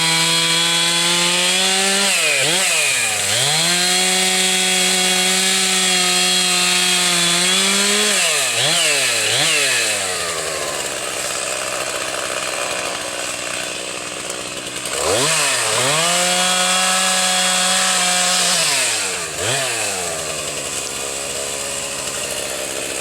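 Chainsaw engine held at high revs for several seconds at a time, twice dropping to idle and revving back up, with a few quick throttle blips in between.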